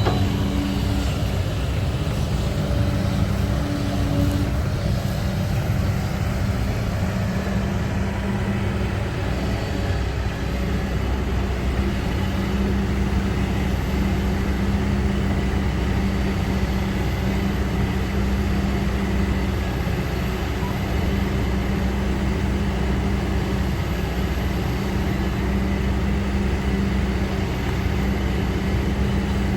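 Heavy diesel engine of a crawler excavator running steadily at constant speed, a continuous hum with a strong low tone. A higher whine is heard in the first few seconds and stops about four seconds in.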